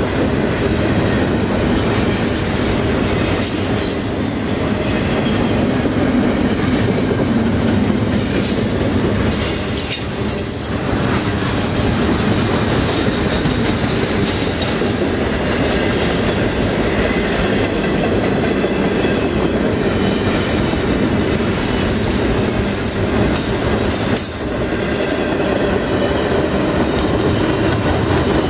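Double-stack intermodal freight train's loaded well cars rolling past at speed: a steady loud rumble of steel wheels on rail, with a quick clickety-clack over the rail joints and a few brief high wheel squeals now and then.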